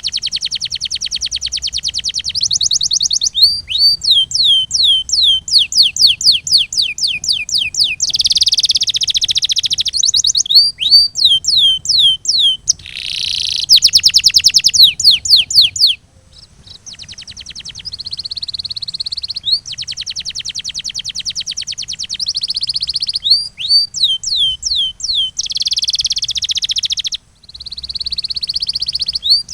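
Canary singing a continuous song of fast rolling trills alternating with runs of quick downward-sweeping whistled notes. There are short breaks about halfway through and near the end.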